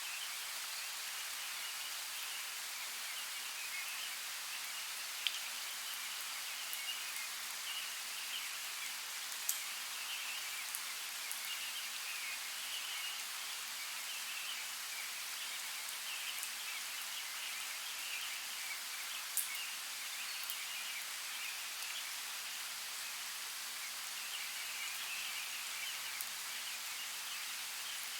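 Steady rush of a flowing forest creek, with a few brief sharp ticks scattered through it.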